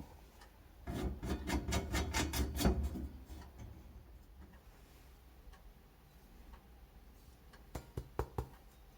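Clattering clicks from objects being handled: a dense run lasting about two seconds, then three separate sharp clicks near the end.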